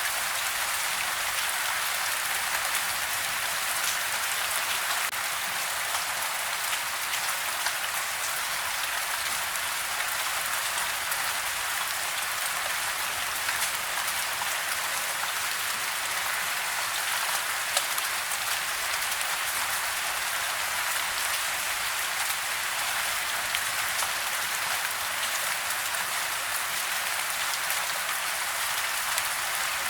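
Steady rain falling on a house, an even hiss with a dense patter of individual drops and an occasional sharper drip.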